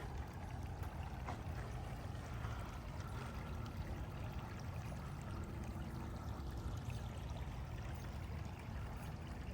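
Steady sound of running water, an even rush with no breaks.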